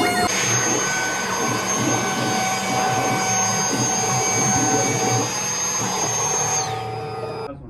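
CNC router spindle running at high speed with a steady high whine over cutting noise, then winding down with a falling tone and stopping near the end.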